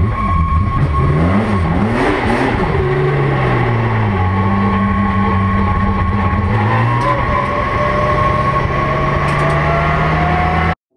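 BMW M3 race car's engine heard from inside the cockpit as the car pulls away: the revs climb and drop several times in the first few seconds, then hold a steady note, and near the end climb slowly as it accelerates. The sound cuts off suddenly just before the end.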